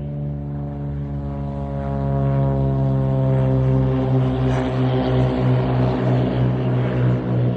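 Cirrus single-engine propeller plane on a touch-and-go, its piston engine at takeoff power and really loud. It grows louder about two seconds in, and its pitch sinks slightly as it passes.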